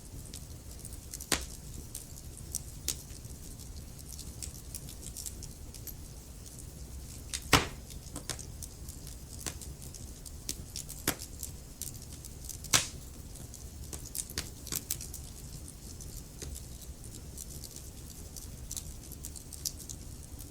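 Wood fire crackling in a fireplace: irregular small snaps and pops over a low steady rumble, with three louder pops, one near the start, one a little past a third of the way, and one near two-thirds.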